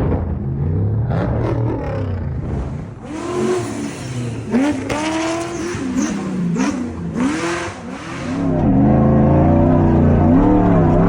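Off-road race truck engine revving hard, its pitch climbing and falling several times in quick succession over a hiss. Near the end it holds at high revs, louder, its pitch wavering.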